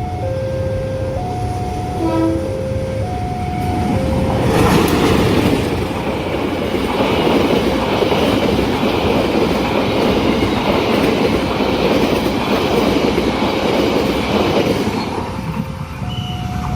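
Railway level-crossing warning chime playing its repeating electronic tune. From about four seconds in, a passing train drowns it out for roughly ten seconds. The chime is heard again near the end.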